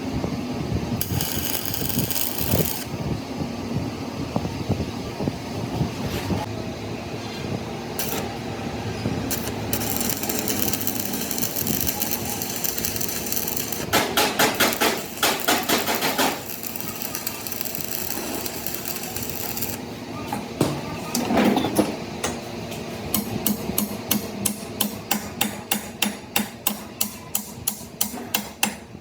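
Hammer blows on metal amid workshop clatter. About halfway through comes a fast run of strikes lasting about two seconds, and near the end a steady series of blows at about three a second.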